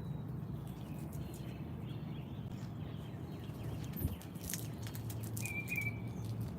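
Outdoor feeder ambience over a steady low hum, with a knock about four seconds in and a short bird chirp soon after.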